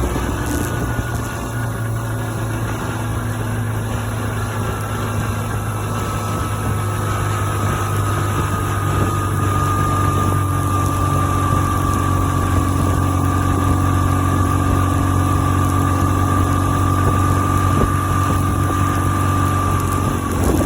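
BMW R1150GS Adventure's boxer twin engine running steadily, with a high whine over the engine note that sinks slightly in pitch over the first ten seconds and then holds.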